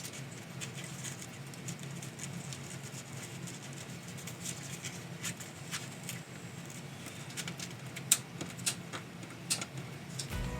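Light taps, clicks and rustles of paper and ribbon being handled on a craft desk, over a low steady hum.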